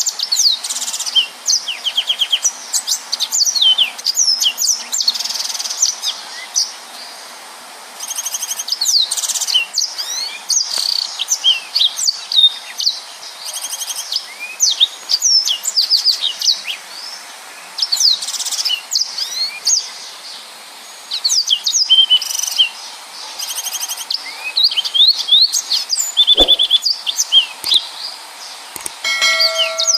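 Yellow-fronted canary (Mozambique canary) singing vigorously: a dense, almost unbroken stream of fast, high chirps, trills and rapid-fire sweeping notes.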